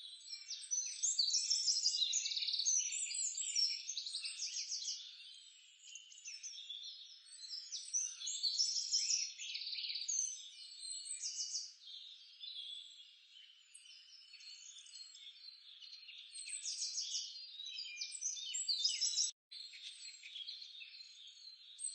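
Birds chirping and trilling in a dense chorus of short repeated calls, with a brief silent gap about 19 seconds in.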